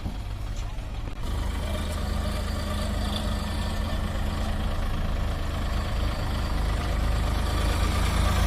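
Sonalika DI 47 RX tractor's diesel engine running steadily, its low note growing louder about a second in.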